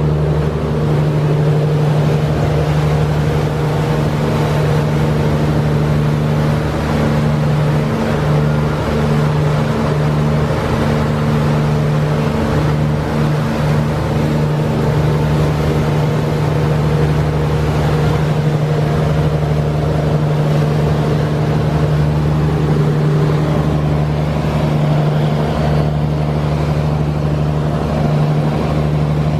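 Passenger boat's engines running steadily at cruise, a loud, even low drone over a constant wash of noise.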